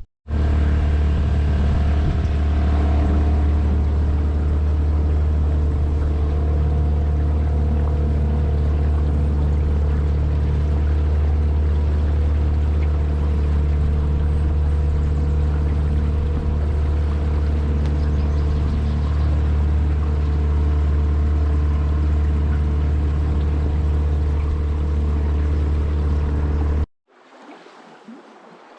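Outboard motor on a small fishing boat running steadily at speed, heard from on board over water and wind noise. It cuts off suddenly near the end, leaving a much quieter sound of flowing water.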